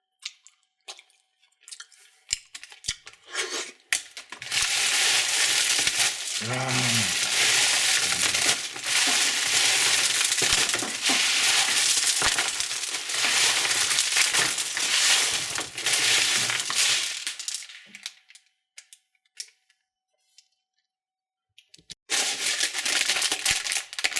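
Plastic candy packaging being crinkled and torn open by hand. There are a few light clicks at first, then a long stretch of dense crinkling and tearing. It stops for a few seconds and starts again near the end.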